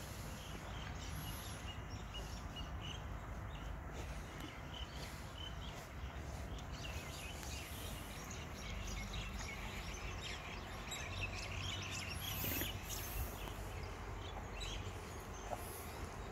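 Cattle-shed background: small birds chirping now and then over a steady low rumble.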